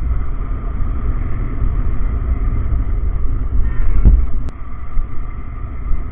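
Yamaha R15M's 155 cc single-cylinder engine running under way, under a heavy low rumble of wind buffeting the microphone; a louder low thump comes about four seconds in.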